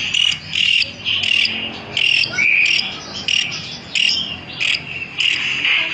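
A caged or hand-held songbird calling in a fast series of short, bright chirps, about two a second.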